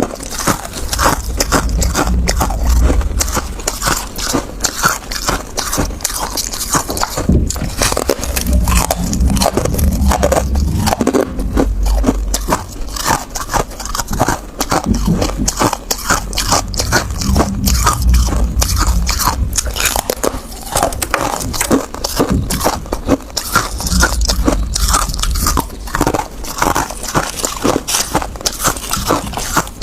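A person biting and chewing hard ice close to the microphone: loud, continuous crunching and cracking that goes on throughout.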